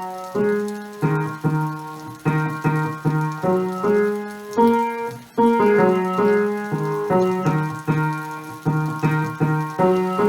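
Piano melody played on a keyboard: notes and chords struck one after another, each ringing and fading.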